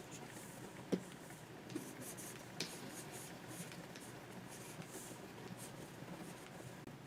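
Pen stylus scratching across a Wacom 24 Pro drawing tablet in many short strokes, with a few sharper taps, the loudest about a second in.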